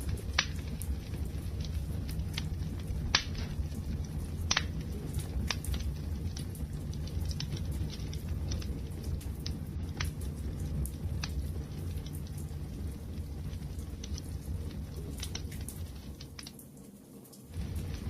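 Wood fire crackling, with sharp pops every second or so over a low steady rumble of the flames. The sound dips near the end, then comes back abruptly.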